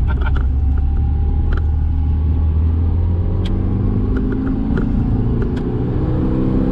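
A Proton Savvy's 1.2-litre four-cylinder petrol engine, heard from inside the car while driving. It runs at a steady low drone, then from about halfway through it revs up with a steadily rising pitch as the car accelerates.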